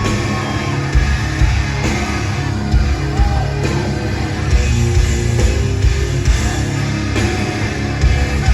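Live rock band playing loud through the venue's PA, with heavy distorted guitars, bass and pounding drums, recorded on a phone in the crowd.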